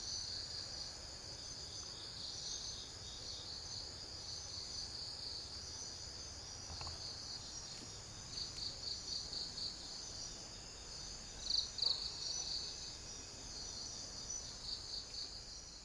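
Chorus of insects trilling steadily at a high pitch, with runs of quick pulsed chirps about three to four a second, loudest in a couple of chirps near the middle.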